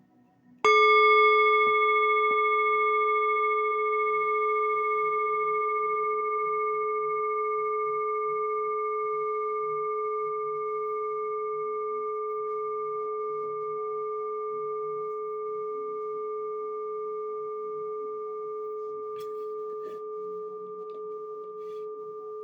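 A singing bowl struck once, about a second in, then ringing on as a long, slowly fading hum of a few steady overtones.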